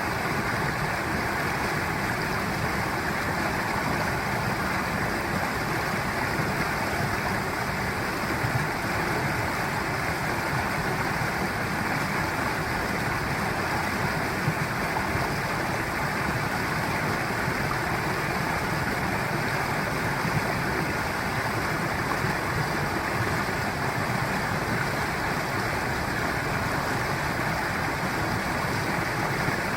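Mountain stream water rushing and babbling over rocks, a steady, even flow.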